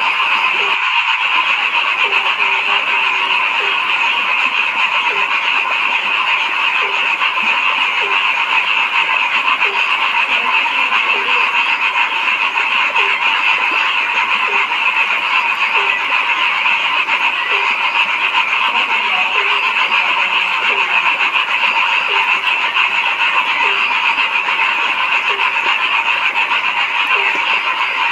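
Frog chorus at night: a dense, steady mass of high calling, over which one deeper frog croaks in short calls repeated about once a second.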